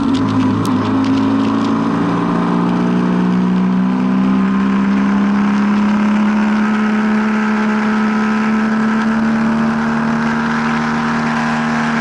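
A vehicle engine running steadily on the move. Its pitch drops a little over the first few seconds and then holds even. A few raindrop ticks are heard near the start.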